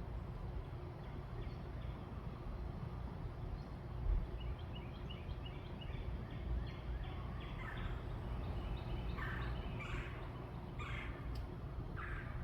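Birds calling over a steady low outdoor rumble: a run of quick, short repeated notes starts a few seconds in, then a series of louder, rougher calls comes every second or so in the second half.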